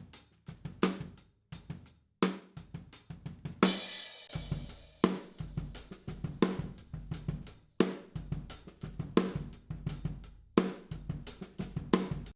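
Recorded acoustic drum kit playing a steady groove of kick, snare and hi-hat, with a cymbal crash about a third of the way in that rings on for several seconds.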